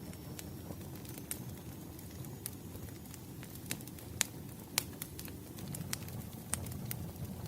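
Wood fire burning: a steady low rumble under scattered sharp crackles and pops, with two louder pops a little past the middle.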